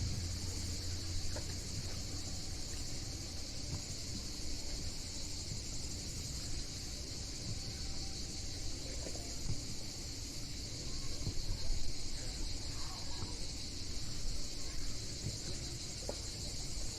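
Steady insect chorus, a continuous high shrill, over a low, uneven rumbling noise.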